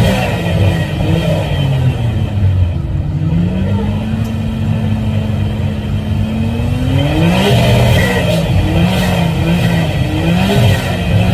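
Nissan GT-R's exhaust as the engine is revved while standing: quick rev blips at first, then a rise held steady for about two seconds before dropping back, then several more quick blips near the end.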